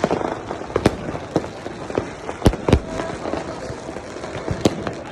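Fireworks and firecrackers going off: a string of sharp bangs at irregular intervals over a steady crackle, the loudest two close together about two and a half seconds in.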